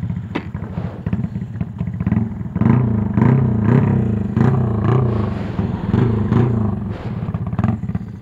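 Honda XRM fi single-cylinder four-stroke engine, bored to 62 mm and run on a racing ECU, idling and then revved in a string of throttle blips, the note rising and falling repeatedly from about two and a half seconds in until near the end.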